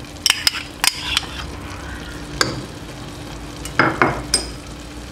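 Chicken pieces, mushrooms and broccoli sizzling in butter in a frying pan, with heavy cream just added on top. A few sharp clicks in the first second, then a short cluster of louder knocks and scrapes about four seconds in.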